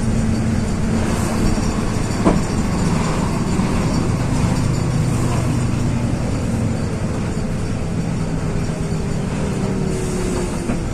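Inside a LiAZ 6213.22-01 articulated diesel city bus on the move: a steady low engine drone under road and body noise, with a single knock about two seconds in and a faint falling whine near the end.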